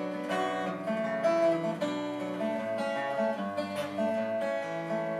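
Acoustic guitar playing an instrumental break in a country-style song, single picked notes and strums changing every half second or so.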